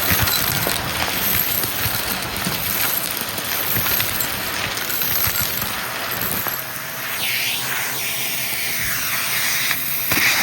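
Shark vacuum cleaner running while picking up a small mess, with bits of debris clicking and rattling as they are sucked up. Its sound shifts in pitch in the second half.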